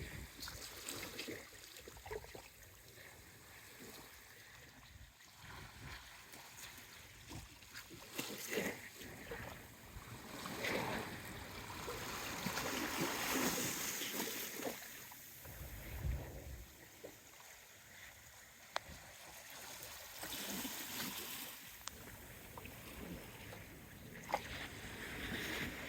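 Small waves washing and splashing against rocks at the shoreline, swelling and ebbing every few seconds, with occasional sharp pops as water slaps the stones.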